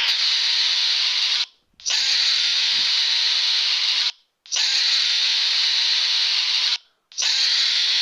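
Very loud, harsh hissing noise in four long bursts of about two seconds each, with short breaks between them.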